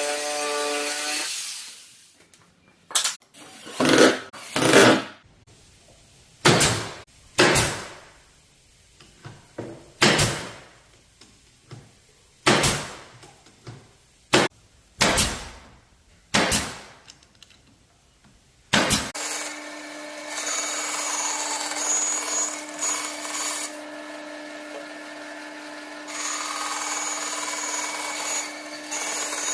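Woodworking power tools at work: about ten short bursts of a power tool working wood, then, about two-thirds of the way in, a power tool's motor starts and runs steadily with a constant hum.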